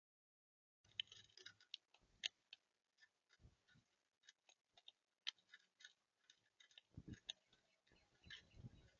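Birds pecking and cracking seed on a feeder: faint, irregular clicks and taps with a few soft knocks, starting about a second in.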